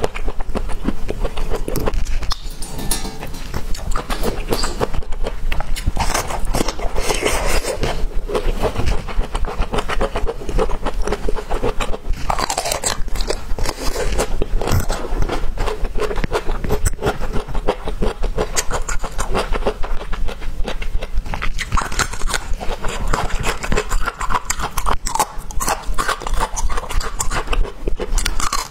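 Close-miked biting and chewing of a peeled bamboo shoot: a dense run of small crunches, clicks and wet mouth sounds.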